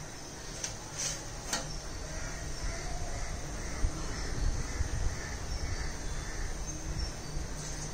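Repeated crow-like caws over a low steady rumble, with a few sharp clicks in the first second and a half.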